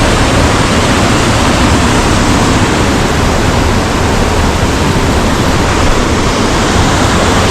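Linville River water rushing over boulders: a loud, steady rush.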